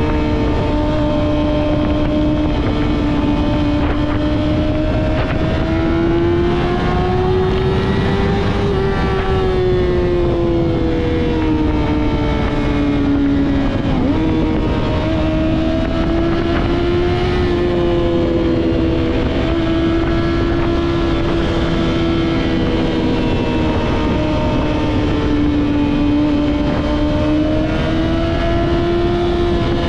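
Yamaha R6 inline-four sport-bike engine through a Two Brothers full-system exhaust, running at high revs under way. Its pitch swells and eases slowly, with a short dip about halfway through.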